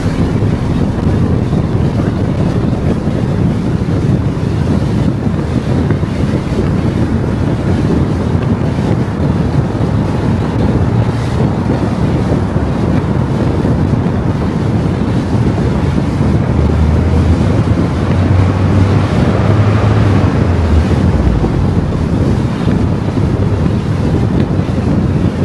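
A car driving on the road: steady road and wind noise, with a heavier low rumble for a few seconds in the second half.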